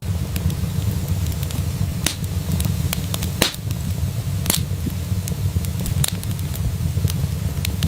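Wood fire in a fireplace crackling: irregular sharp pops and snaps, a few louder ones, over a steady low rumble of the burning fire.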